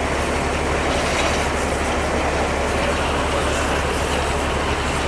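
Silage baling and wrapping machine running steadily, a continuous mechanical din with a low hum, as it packs a bale of silage fodder.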